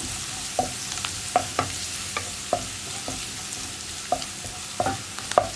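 Crushed ginger and garlic, curry leaves and fennel seeds sizzling in hot oil in a nonstick pan while a spatula stirs them, with irregular light taps and scrapes of the spatula against the pan over a steady sizzle.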